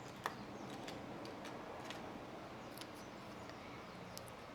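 A few faint, scattered light clicks and taps over a quiet room hiss, from brush and paint being handled while mixing colours on a palette.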